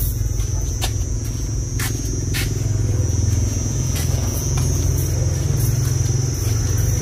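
Steady low rumble with a thin, even high-pitched whine over it and a few scattered clicks.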